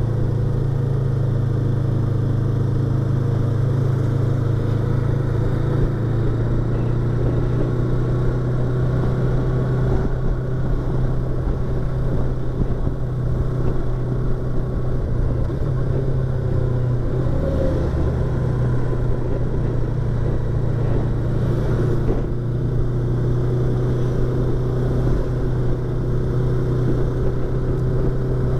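Yamaha YZF-R25's 249 cc parallel-twin engine and exhaust running at a fairly steady cruise, its pitch drifting only a little, with road and wind noise, heard from inside the rider's helmet.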